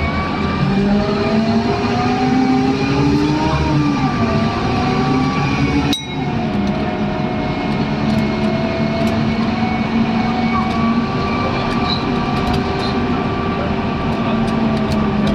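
Scania N230UD Omnidekka double-decker bus accelerating: engine and driveline whine rising in pitch, dropping abruptly at a gear change about four seconds in, then pulling on at a steady pitch, with a brief click and dip in sound about six seconds in.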